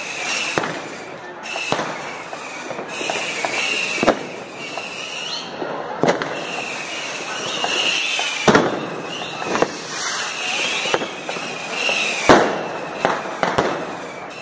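New Year's fireworks and firecrackers going off: a dozen or so irregular sharp bangs, the loudest about twelve seconds in, over a continuous crackle and high whistling.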